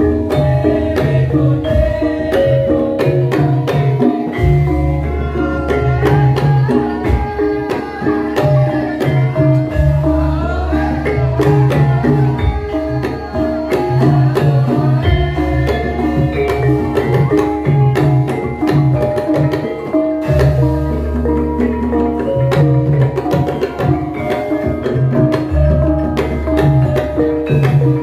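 Javanese gamelan playing: struck metal keyed instruments ring steady pitched notes over kendang hand-drum patterns, with a deep gong stroke swelling about every five seconds.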